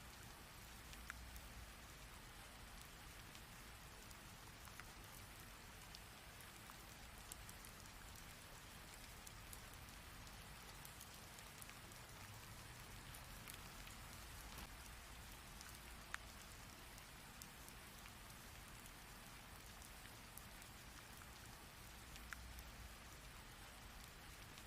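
Steady, faint rain falling, an even hiss with a low rumble underneath. Sharper single drop ticks stand out now and then, the clearest about sixteen seconds in.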